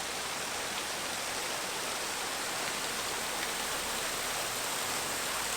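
Steady, even hiss of falling water, such as rain or rushing rainforest water.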